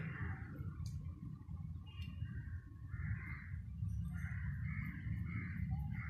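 A bird calling repeatedly: a string of short, rough calls beginning about two seconds in, over a steady low rumble.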